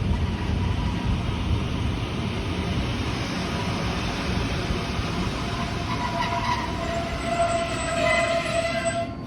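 Rhaetian Railway regional train running, a steady rumble. Over the last few seconds a high ringing tone with several pitches sets in, then cuts off abruptly near the end.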